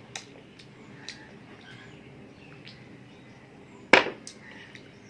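Eating sounds: faint small clicks and rustles, with one loud sharp crack about four seconds in, like a bite into crisp masala dosa.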